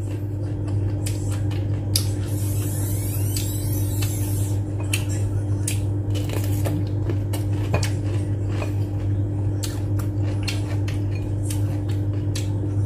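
Close-up eating sounds: chewing and crunchy bites of a whole raw cucumber, with many small wet clicks and crackles, over a steady low hum.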